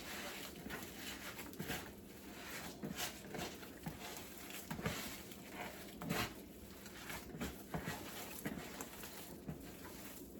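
Hands kneading raw ground-beef meatball mixture of egg and breadcrumbs in a bowl: faint, irregular soft squishing.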